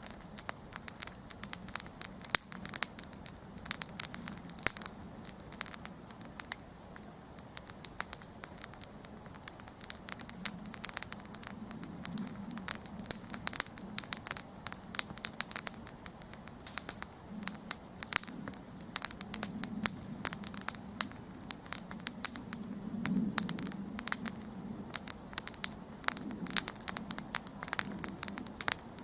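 Wood campfire crackling, with frequent sharp snaps and pops of burning wood over a low rush of flames that swells now and then.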